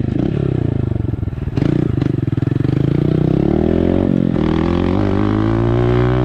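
Small motorcycle engine, a dirt bike, revving up and down as it is ridden; the pitch dips, then climbs and falls again. A short clatter comes about a second and a half in.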